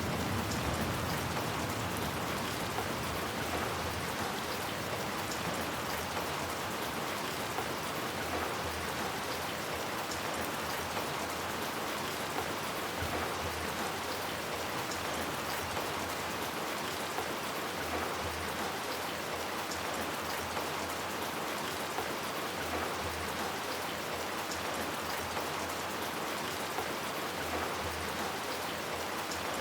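Steady rain falling on hard surfaces, an even hiss of drops, with the low rumble of a thunderclap dying away at the start.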